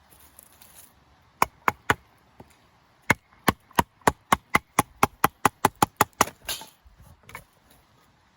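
Bush knife chopping into wood: three strikes, a short pause, then a quick, even run of about a dozen strikes at roughly four a second.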